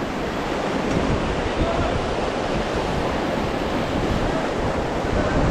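Whitewater of a Ganges river rapid rushing and splashing around a raft, a loud, steady wash, with wind on the microphone.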